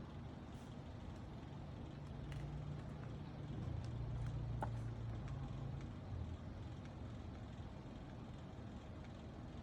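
A faint low rumble that swells for a few seconds in the middle and fades again, with a few soft clicks over it.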